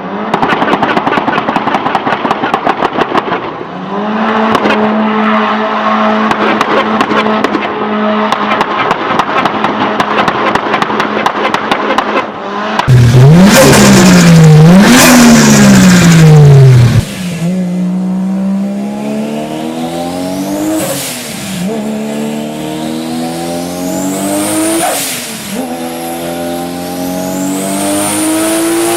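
Turbocharged car engines: rapid anti-lag popping and crackling at first, then a loud rev rising and falling. After that, the car accelerates through several gears, the engine pitch and a high turbo whistle climbing together and dropping at each shift.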